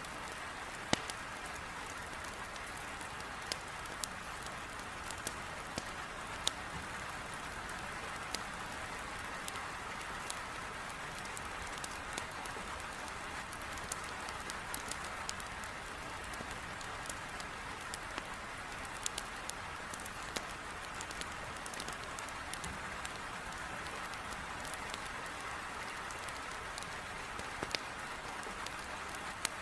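Heavy rain beating steadily on a window, with a wood fire crackling: sharp irregular pops and snaps scattered over the even hiss of the rain.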